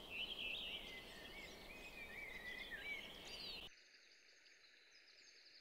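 Birds chirping and twittering faintly, a run of short warbling notes. It cuts off abruptly about three and a half seconds in, leaving faint ambience with a few thin, high tones.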